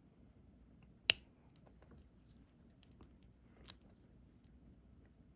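Diamond painting pen setting small resin drills onto the canvas: a few scattered light clicks and taps, the loudest about a second in and another a little before four seconds.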